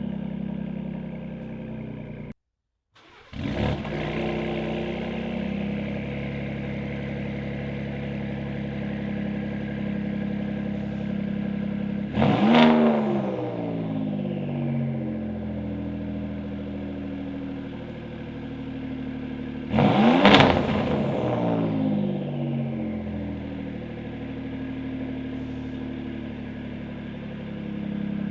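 Ford Raptor's 3.5 L twin-turbo EcoBoost V6 idling through a Corsa cat-back exhaust, with three quick throttle blips whose pitch shoots up and falls back to idle. There is a short dropout near the start.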